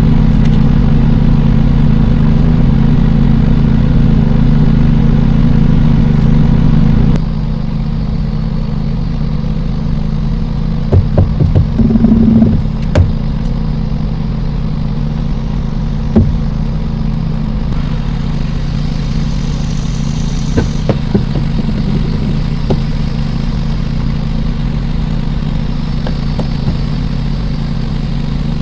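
Semi-truck diesel engine idling steadily. Its sound drops somewhat about seven seconds in, and a few short knocks and clicks come around the middle.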